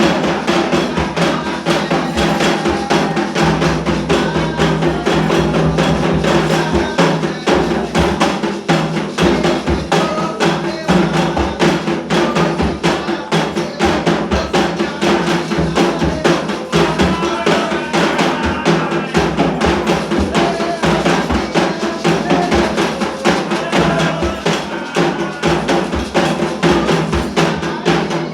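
Candomblé ritual drumming on atabaque hand drums, a fast, steady rhythm of dense strokes that keeps going without a break, with a wooden or bell-like percussion part and voices faintly singing over it.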